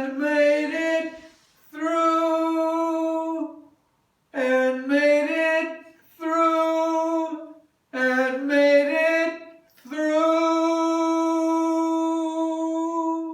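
A woman singing unaccompanied in a small room: several short sung phrases, then a long held final note of the song that cuts off near the end.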